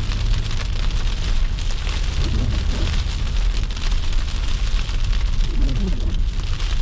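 Car driving through snow and slush: a steady low rumble of engine and road noise with an even hiss of tyres on the wet road.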